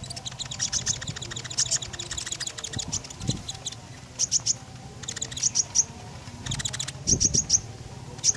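Konin songbird singing: rapid runs of sharp, very high chirps in short bursts, repeated with brief pauses. This is a "gacor" bird in full, constant song.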